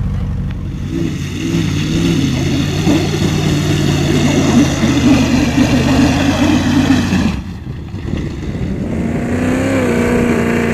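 Range Rover V8 engine revving hard as the truck accelerates past over rough ground. The engine note climbs, cuts off briefly about seven and a half seconds in, then climbs again.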